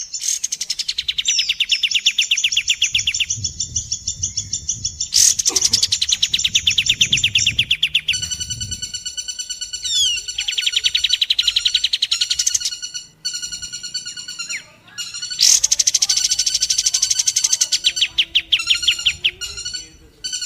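Recorded birdsong of the kapas tembak and a woodpecker (pelatuk) mixed as a masteran track: long runs of very rapid, high, sharp trilled notes lasting a few seconds each, alternating with stretches of a steady, evenly repeated higher call.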